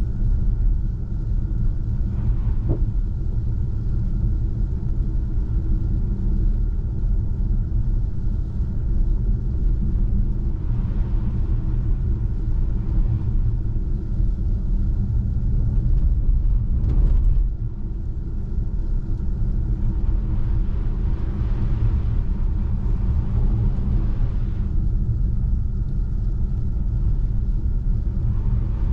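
Steady low tyre and road rumble of a Tesla Model 3 driving on a snow-covered road, with no engine note. A brief knock comes about three seconds in and another a little past halfway.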